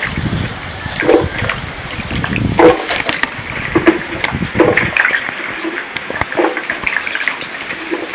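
Wet chopped vegetables and water being tipped into a blender jar: splashing and sloshing with scattered knocks of handling, heavier for the first three seconds or so.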